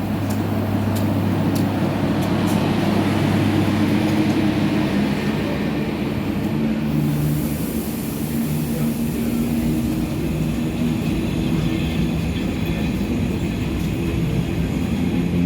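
A train running past, a steady rumble with a low hum underneath and a few clicks in the first seconds.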